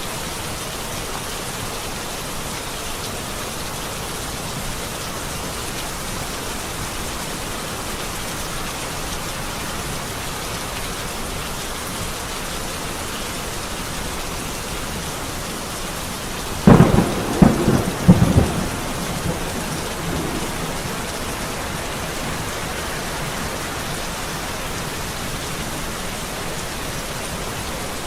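Steady rain falling, with a close thunderclap about two-thirds of the way through: a few sharp cracks in quick succession over about two seconds, the loudest sound, then a short rumble fading back under the rain.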